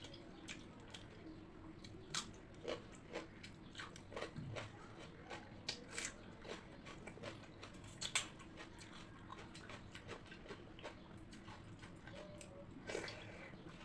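A person chewing and biting crunchy food with pakhala bhata (fermented watered rice), in irregular crisp crunches and mouth clicks.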